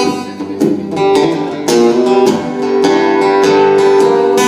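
Acoustic guitar strummed in a steady rhythm, playing an instrumental passage between sung verses of a folk-blues song.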